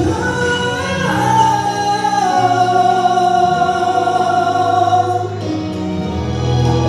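Live pop-ballad singing over a backing track: a male singer holds one long high note for about four seconds, starting about a second in.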